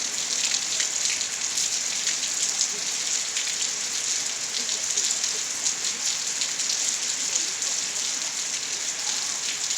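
Steady rainfall: a continuous high hiss with a dense patter of individual drops striking a surface.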